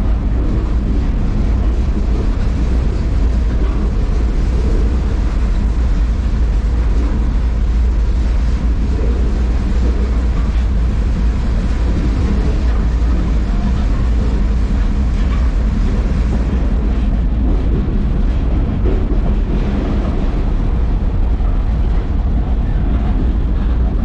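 Moving freight train heard from on board: a steady, loud rumble of the rolling railcar.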